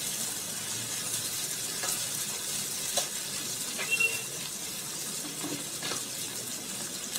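Chopped onions, tomatoes and curry leaves sizzling steadily in hot oil in a non-stick kadai, with a few light clicks and a brief squeak about four seconds in.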